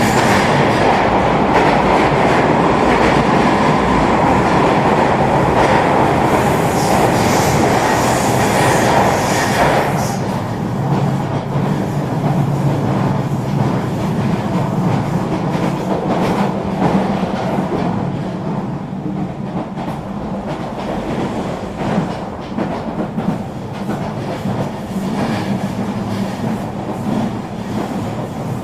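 Eurobahn regional train running on the rails: a steady rumble of wheels on track with scattered clicks from rail joints. The rumble becomes noticeably quieter about ten seconds in.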